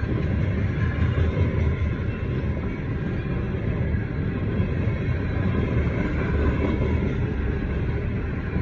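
CSX freight train's cars rolling through a grade crossing, a steady low rolling noise of wheels on rail, heard from inside a car.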